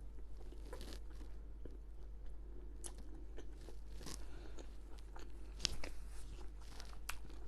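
A person chewing food close to the microphone, with scattered small crunches and mouth clicks.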